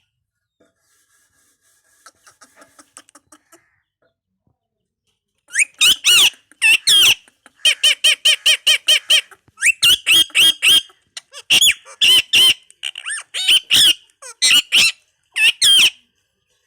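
Indian ringneck parakeet calling: soft rapid chatter for the first few seconds, then a long series of loud, high, short squawks in quick runs of several calls each.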